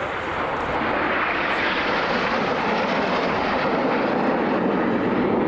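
Jet noise from Red Arrows BAE Hawk T1 trainers flying past: a broad rushing roar that grows slowly louder, its pitch sinking as the jets pass.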